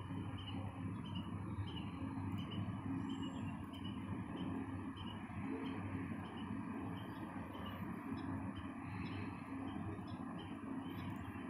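A small bird chirping over and over at a steady pace, about two short chirps a second, over a steady low hum.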